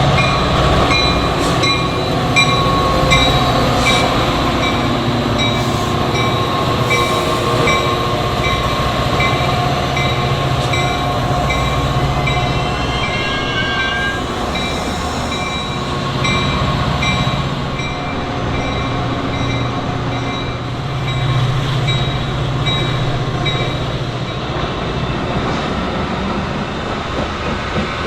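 Diesel-hauled train running through a station with a steady low rumble of engine and wheels, while a railroad crossing warning bell dings about twice a second. The bell pauses midway and then starts again.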